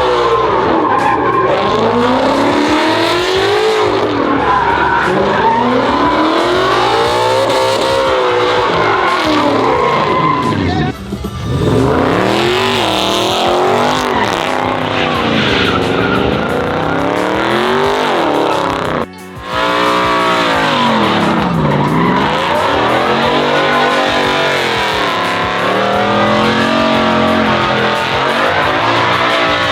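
Truck engine revving up and down again and again over screeching tires in a burnout. The sound drops out briefly twice, at about 11 and 19 seconds.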